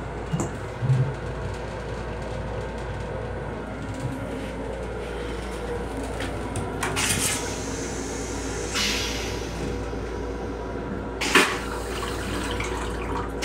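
Steady rumble of a moving Metro-North M7 railcar heard inside its restroom, with a few clunks and swishes and one sharp knock about eleven seconds in.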